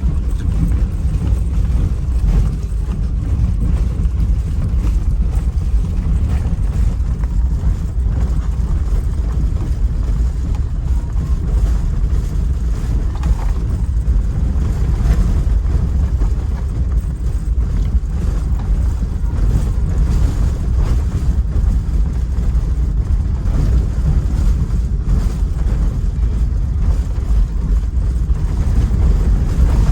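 Small river boat's motor running steadily underway, a continuous low rumble.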